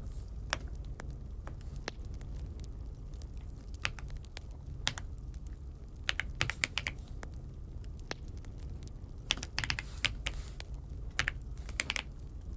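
Keys of an Aula F75 mechanical keyboard being pressed, single clicks spaced out at first, then quick bursts of several keystrokes at a time.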